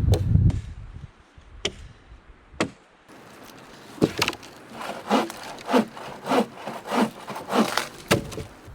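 Hand saw cutting through wood in a run of about six even back-and-forth strokes, preceded by a few sharp wooden knocks.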